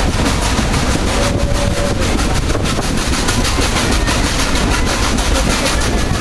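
Passenger train behind a steam locomotive, heard from an open-air car while under way: a steady loud rumble with a rapid clatter of wheels on rail.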